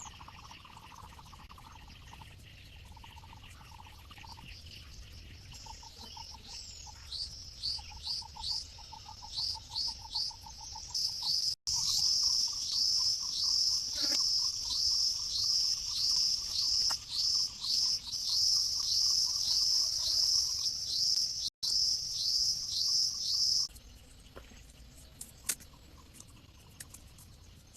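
A bird calling over and over, a short falling chirp about twice a second, growing louder about halfway in and stopping abruptly near the end. A quieter, fast pulsing trill runs underneath.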